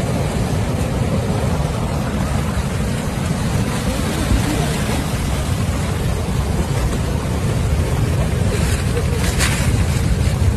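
Surge of water and broken ice from a burst ice dam rushing past: a steady loud rush with a deep rumble underneath, and a short hiss near the end.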